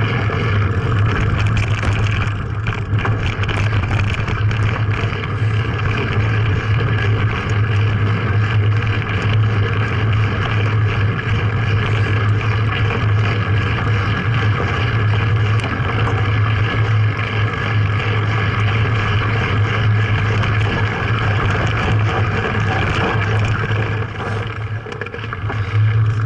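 Vehicle engine running steadily with a constant low drone, easing briefly near the end.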